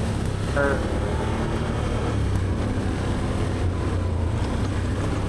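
Can-Am Outlander 850 XT's V-twin engine running steadily as the ATV rides along a trail at moderate speed.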